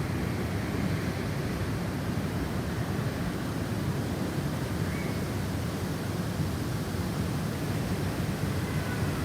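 Snowstorm wind blowing in a steady, heavy rush, its weight low down.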